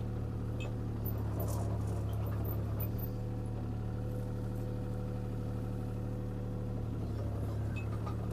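Diesel engine of a CAT 303C CR mini excavator running steadily while the machine works, with a higher steady whine coming in for a few seconds midway.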